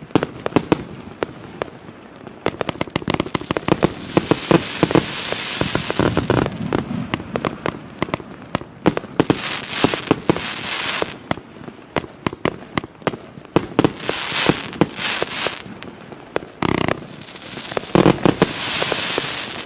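A 137-shot consumer firework cake of 1–1.2 inch calibre firing rapid shots, each a sharp pop. Several stretches of dense crackling hiss, lasting a second or more each, recur every few seconds.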